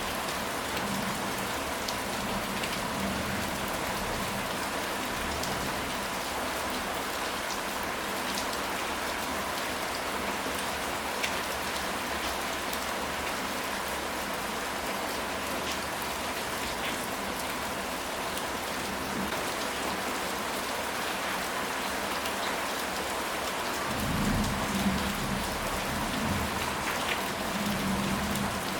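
Steady rain falling on a surface, with scattered individual drops ticking through it. Near the end a low rumble of distant thunder rolls in for a few seconds.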